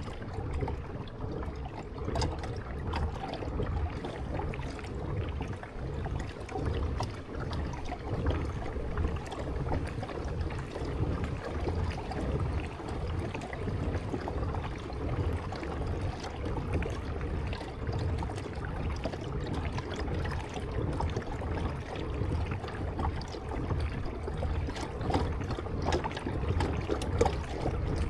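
Water noise from a kayak being paddled: the paddle dipping and dripping and water moving along the hull.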